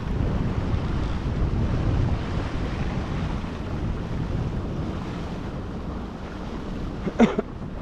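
Wind buffeting the microphone and water washing past a windsurf board under sail, fading a little over the stretch. Near the end comes one brief, wavering high squeak.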